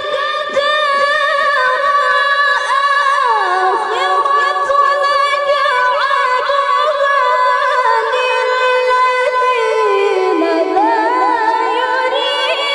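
A woman reciting the Qur'an in melodic tilawah style, holding one long, high, clear ornamented note with fast wavering turns. The pitch steps down about three seconds in and again near ten seconds, then climbs back up near the end.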